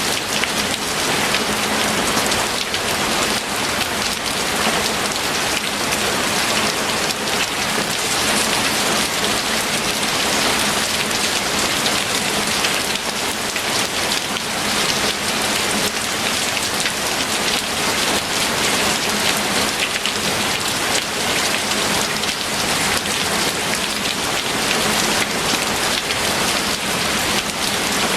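Steady heavy rain falling, a dense even hiss of drops hitting a surface.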